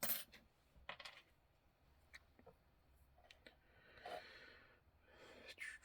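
Near silence with a few faint, short clicks from handling the clock, then a soft breath about four seconds in and another near the end.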